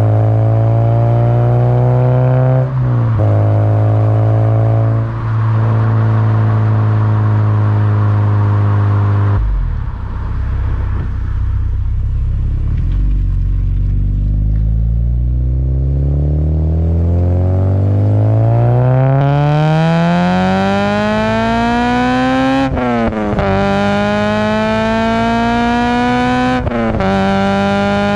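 Honda Civic Si's 2.0-litre K20 inline-four running through a Skunk2 Alpha header and Full Race 3-inch exhaust. It cruises with a slowly falling pitch, drops to low revs about ten seconds in, then pulls hard with a long rising note from about halfway. Upshifts near the end briefly drop the pitch before it climbs again.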